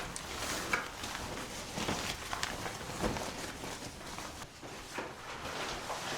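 A string of light, irregular crunches and knocks, a few each second.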